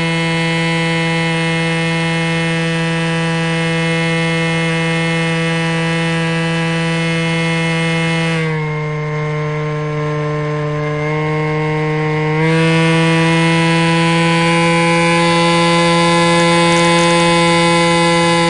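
Electric motor and propeller of an ST Models Cessna 182 RC plane whining steadily, heard from on board. About halfway through, the pitch drops as the throttle is eased back. About four seconds later it climbs back up and gets a little louder.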